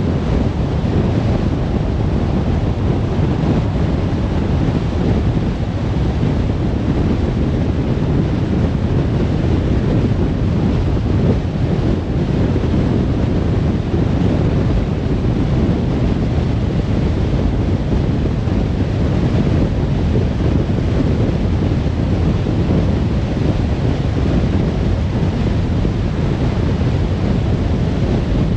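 Steady rumble of road and wind noise from a moving car.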